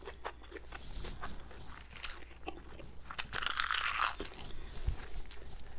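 Close-miked mouth sounds of a person chewing Korean instant noodles and meat, with small wet clicks and smacks. About three seconds in comes a louder, hissy stretch of about a second as food is put into the mouth by hand.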